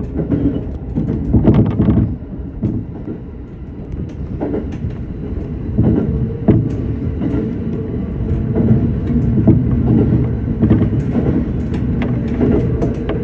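Electric local train running along the line, heard from inside the front car: a steady low rumble with scattered clacks of the wheels over the rails, easing off briefly a few seconds in.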